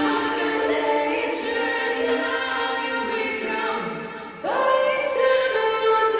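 Layered a cappella vocal harmonies holding long, choir-like chords, with a brief dip about four seconds in before a new chord swells in.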